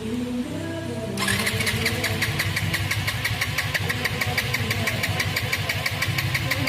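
Motorcycle engine catches about a second in and runs at idle with a quick, even beat of firing pulses.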